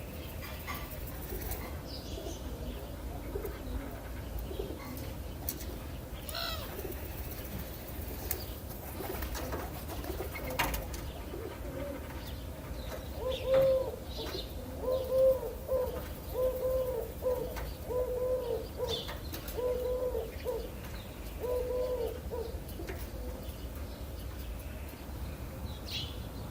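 Dove cooing: a run of about seven low, evenly repeated coos starting about halfway through, among scattered short chirps of small birds over a steady low rumble.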